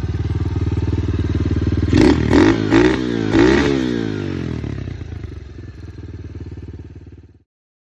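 125cc four-stroke dirt bike engine idling, then blipped about four times in quick succession around two to three and a half seconds in, each rev rising and falling. It settles back to idle and the sound cuts off suddenly near the end.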